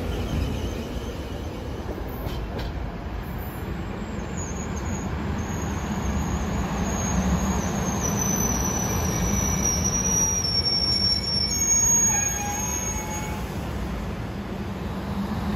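Train rolling on the rails with a steady low rumble, and thin high-pitched wheel squeal that comes in a few seconds in and fades near the end.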